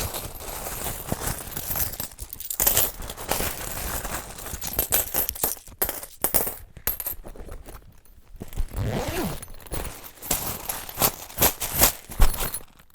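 Metal clinking and clattering, like coins spilling and scattering, mixed with repeated sharp knocks and scrapes. A brief falling sound comes about nine seconds in.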